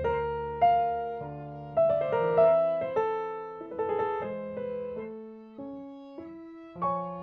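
Solo piano background music: a slow melody of single notes struck one after another, each left to ring and fade.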